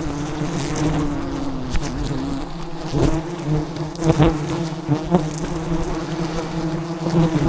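A swarm of giant honey bees buzzing in a steady, dense drone around their disturbed hive, with a few brief clicks and knocks over it.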